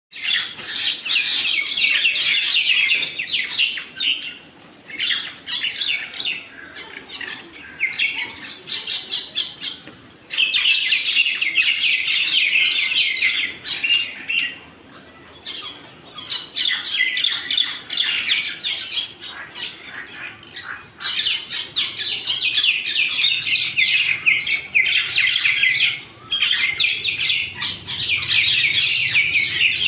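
Birds squabbling: bouts of rapid, harsh chattering calls several seconds long, broken by short pauses.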